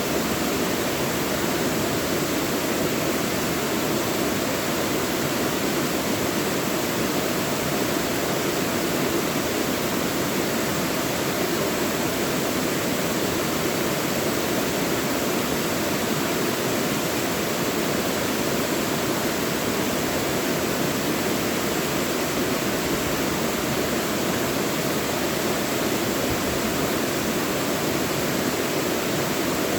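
Mountain stream rushing over rocks in a steady, even flow.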